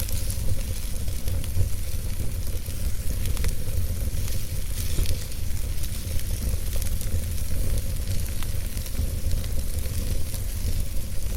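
Wood fire burning in a fireplace: a steady low rumble of flames with scattered crackles and small pops from the logs.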